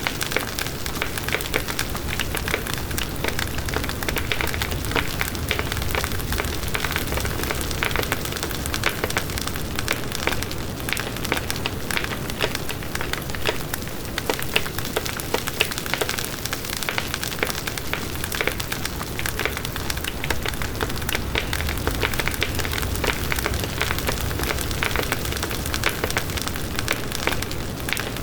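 Campfire burning, with dense irregular crackles and pops of wood over a steady hiss.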